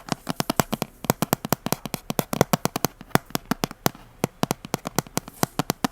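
Rapid, crisp tapping and clicking on a small object held close to a headset microphone, ASMR-style, several sharp taps a second in an uneven rhythm.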